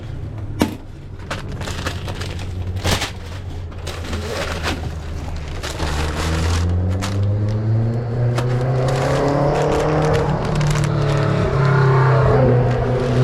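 A motor vehicle's engine pulling away, its pitch rising and its sound growing louder over several seconds. A few sharp clicks and knocks come in the first few seconds.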